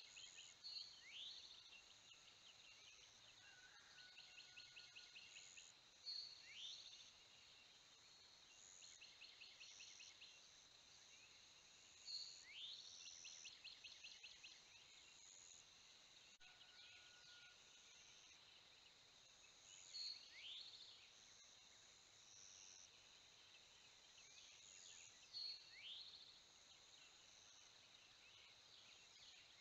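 Songbirds singing: phrases of rapid, evenly spaced trill notes and quick upward-sweeping notes every few seconds, with short higher notes between, over a faint steady high whine.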